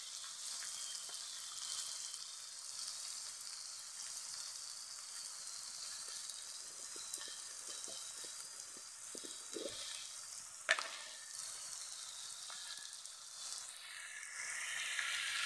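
Snail meat frying with onion and chilli in an iron wok: a steady sizzle, with a steel spoon scraping and tapping the pan in the middle and one sharp knock about two-thirds of the way through.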